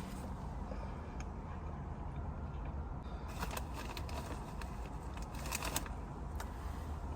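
Person chewing food at close range, with two clusters of crisp crunching clicks about three and a half and five and a half seconds in, over a steady low hum.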